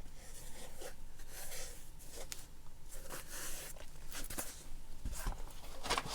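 Paper and card of a handmade junk journal rustling and scraping as it is handled and its pages are turned, with small clicks and a soft thump about five seconds in.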